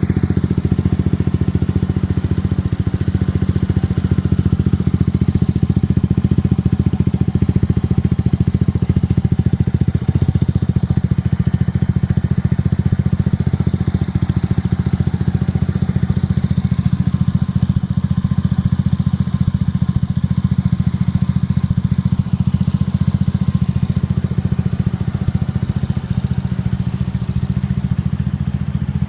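Exhaust note of a Suzuki Address V125G scooter's single-cylinder four-stroke engine through a Realize 22Racing titanium aftermarket muffler with the baffle removed, running steadily at constant speed with no revving.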